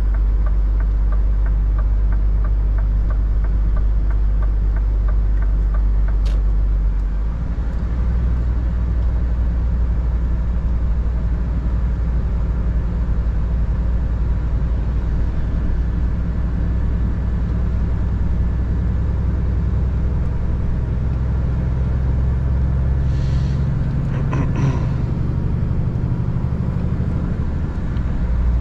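Scania R 450 truck's six-cylinder diesel running steadily under way, with its low drone changing note about seven seconds in. A light ticking runs through the first six seconds, and a few short hissing sounds come near the end.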